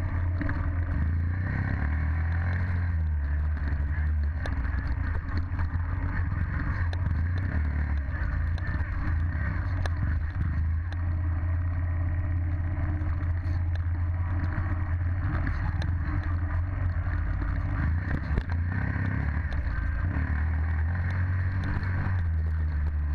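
Dirt bike engine running at a fairly steady speed while riding.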